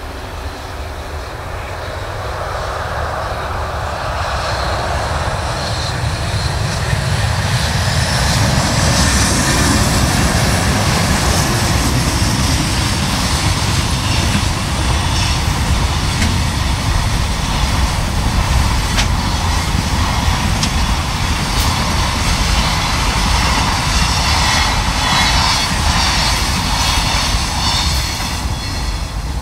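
JR Freight EH500 AC/DC electric locomotive approaching, then a long freight train of container wagons rolling past, steel wheels running on the rails. The rumble grows over the first several seconds, then holds loud and steady as the wagons go by.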